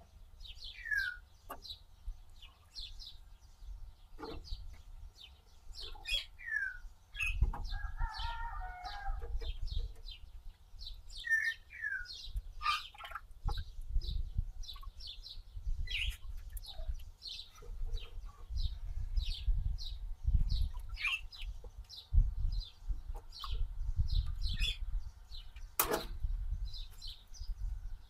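Birds chirping over and over: short high chirps a few times a second, with a few lower sweeping calls and a warbling call about eight seconds in. Underneath is a low rumble that comes and goes, and there is a sharp click near the end.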